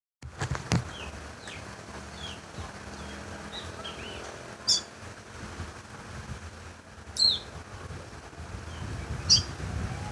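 A red songbird whistling: soft short chirps, then three loud, sharp notes that slide downward in pitch, each a couple of seconds apart.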